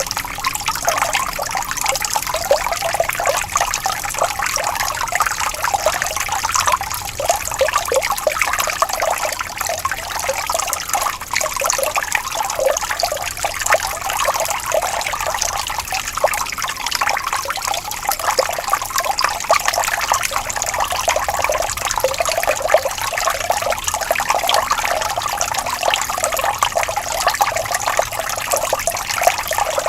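A small stream of water flowing and trickling steadily, in a continuous bubbling babble.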